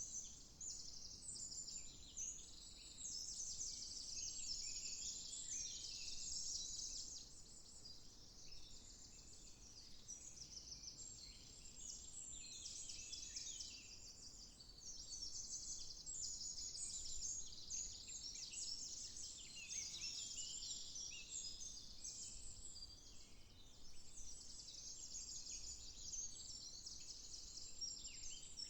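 Several songbirds singing at once in a continuous chorus of overlapping high-pitched chirps and rapid trills.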